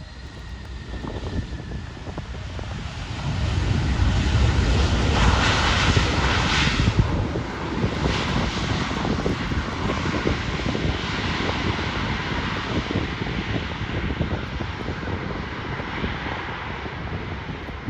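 Airliner's engines passing by, the noise building to its loudest about five seconds in, then a long steady rumble that slowly fades.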